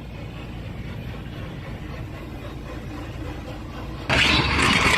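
Low, steady vehicle rumble of engine and road noise. About four seconds in, a much louder rushing noise with crackles starts suddenly and keeps going.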